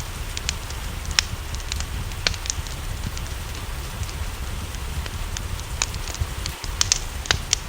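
Wood fire crackling with irregular sharp pops, a few in quick succession near the end, over the steady rush of rain.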